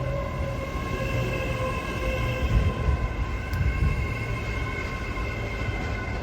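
Train running at a station platform: several steady whining tones over a low rumble, with a lower tone sinking slightly and fading in the first couple of seconds and a few heavier low thumps around the middle.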